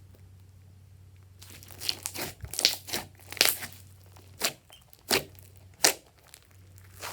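Glossy slime being squeezed and stretched by hand, giving a run of about seven sharp clicks and pops that starts about a second and a half in and stops near the end.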